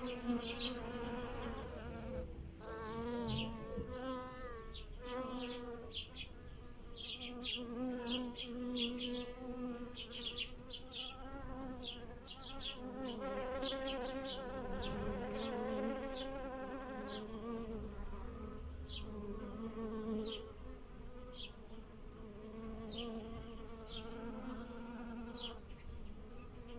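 Bees buzzing around flowers, their buzz wavering up and down in pitch as they move. Short high chirps are scattered throughout.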